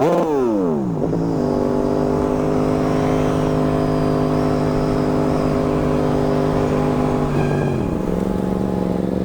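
Yamaha MT-07 parallel-twin engine running under way. The revs fall sharply at the start, settle into a steady pitch for several seconds, then drop to a lower steady note about eight seconds in as the throttle is eased.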